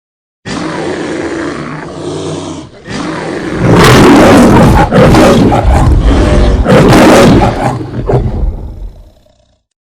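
Lion roaring. Quieter calls come first, then three long, loud roars from about three and a half seconds in, fading away near the end.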